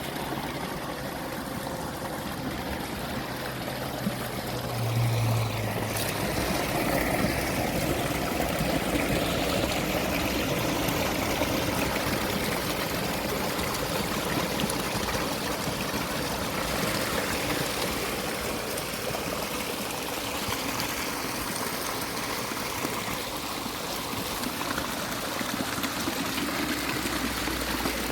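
Spring water running steadily, a continuous rushing flow.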